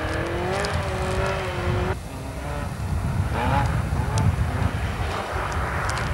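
Rally car engine revving hard as the car slides through a snowy corner: the note rises, holds high for about two seconds and drops away, then rises again briefly a little past three seconds in. A low rumble underlies it throughout.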